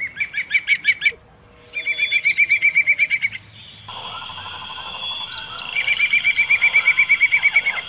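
Songbirds singing: fast, high trills of rapidly repeated chirps in three bouts, with other chirps and calls between them.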